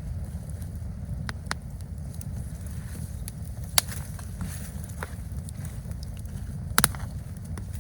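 Campfire crackling, with a few sharp pops spaced irregularly, the loudest near the end, over a steady low rumble.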